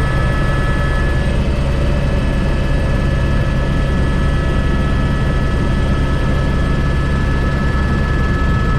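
Airbus H125 (AS350 B3) single-turbine helicopter running steadily, heard from on board: a dense low rotor and engine thrum with several thin, steady high-pitched whines above it.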